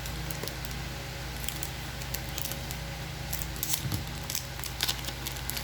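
Trading cards being handled and flipped through by hand: a run of light, crisp clicks and rustles over a steady low hum.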